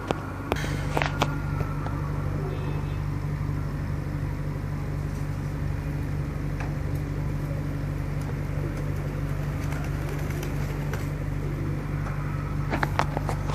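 Domestic pigeons cooing over a steady low mechanical hum, with a few clicks near the start and end.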